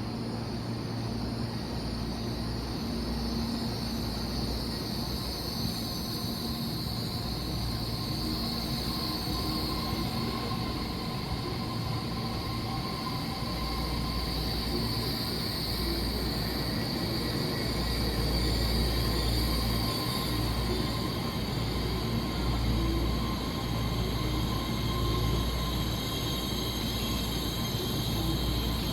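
A train running on the rails: a steady low rumble with a high whine held on top, growing a little louder about two-thirds of the way through.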